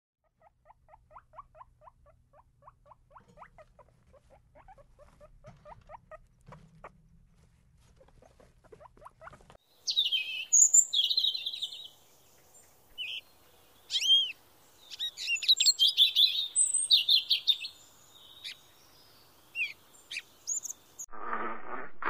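Guinea pigs making short, soft squeaks that repeat several times a second. About ten seconds in, a northern cardinal starts singing loud, clear whistled phrases with short pauses between them. In the last second a louder, lower animal sound begins.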